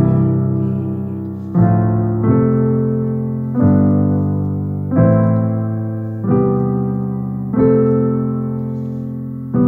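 Piano playing a slow instrumental passage of chords, a new chord struck about every second and a half and left to ring and fade.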